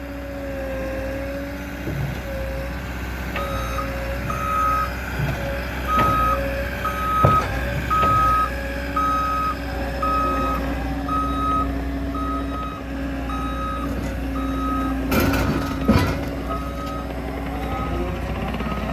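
Skid steer's diesel engine running steadily while it backs up. Its reversing alarm beeps about once a second, starting about three seconds in, with a few clanks or knocks from the machine, the loudest near the end.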